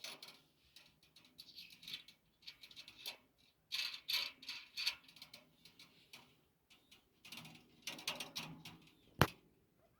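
Metal parts of a steel camping wood stove being handled, rattling and clicking in short clusters, with one sharp metallic click about nine seconds in.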